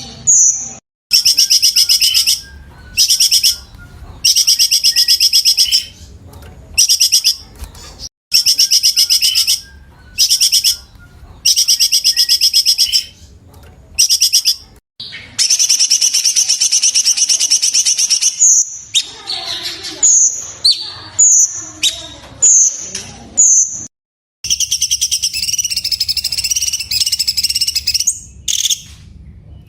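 Cucak cungkok songbird singing its sharp, fast rattling song phrases, each about a second long with short pauses between. Midway a longer three-second phrase runs, followed by a string of short high whistled notes, then another long rattling phrase near the end.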